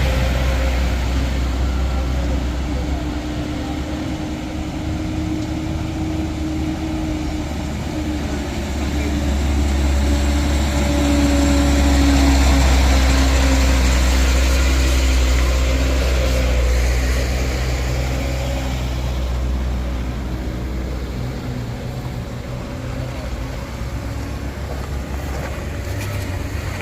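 Heavy vehicle engine running with a deep rumble, swelling about ten seconds in and easing off again after about eighteen seconds.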